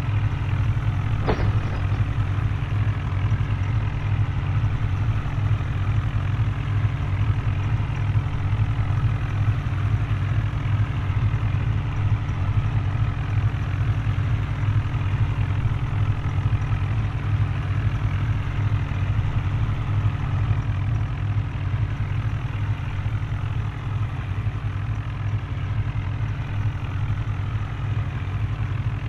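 Tractor engine running steadily with an even low drone, and a brief click about a second in.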